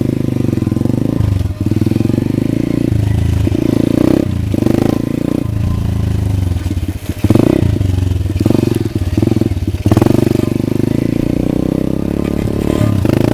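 Pit bike engine running through its muffler with the duct-tape-and-cloth packing taken out, so the exhaust is unbaffled, revved up sharply a couple of times.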